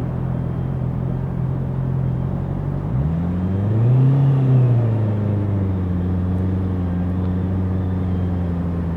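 Honda CBR650R's inline-four engine running at a steady note, then revving up briefly about three seconds in and settling back to a steady, lower note.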